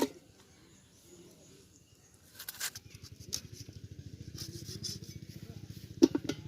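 A few sharp chops of a knife cutting raw chicken into pieces, the loudest a quick double chop near the end. A low, fast, even throb starts about two seconds in.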